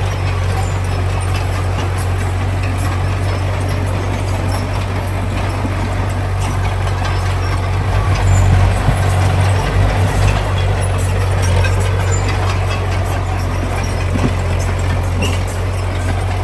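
Heavy diesel construction machinery running with a steady low drone, among scattered clicks. The engine swells louder and more uneven for a few seconds around the middle, then settles back.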